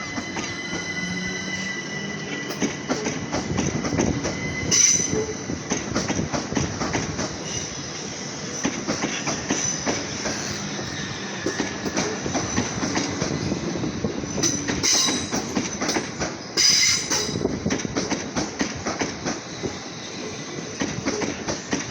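Southeastern Class 375 Electrostar electric multiple unit pulling out and running past. Its wheels click steadily over rail joints and pointwork, and the flanges squeal in short high bursts about five seconds in and twice more near the end.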